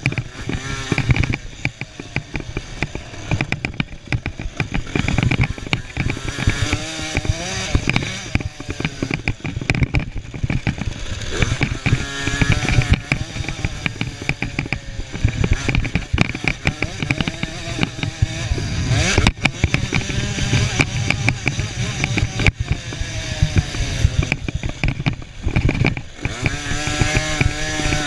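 Small two-stroke 50 cc motocross bike engines revving and buzzing, rising and falling in pitch as the throttle opens and closes, with voices mixed in.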